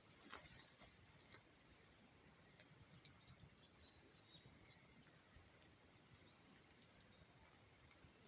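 Faint small-bird chirps: short high notes that slide up and down, scattered through the quiet, with a few sharp clicks.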